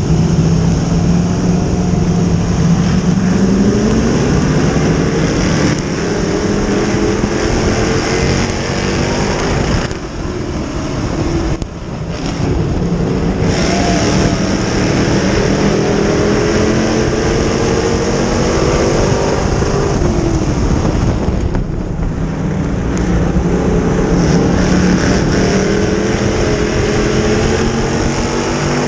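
Dirt-track modified race car engine at racing speed. Its pitch climbs and falls in long swells several times, with brief drops in loudness where the revs fall.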